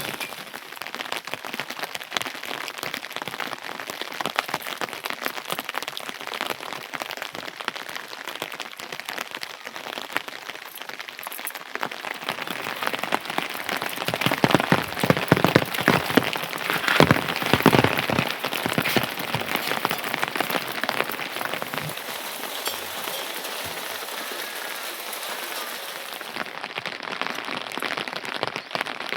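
Rain pattering on a surface: a dense spread of small drop impacts that gets heavier and louder about halfway through, then eases back.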